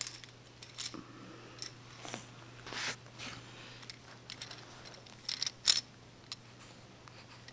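Scattered light clicks, taps and brief rustles, a few a second at most, over a steady low hum.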